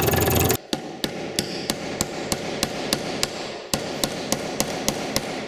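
A power tool runs and cuts off about half a second in. It is followed by steady hammer blows on metal, about three a second, as a seized dirt bike wheel bearing is beaten off its axle.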